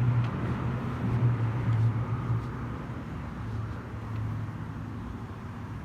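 A steady low engine hum with an even background hiss.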